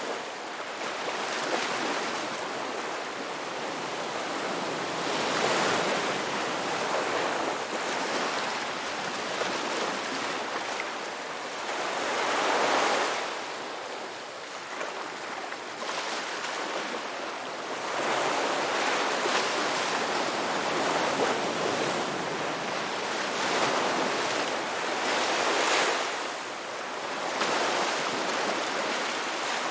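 Sea waves breaking: a continuous surf wash that swells and ebbs as each wave comes in, with five or so louder surges.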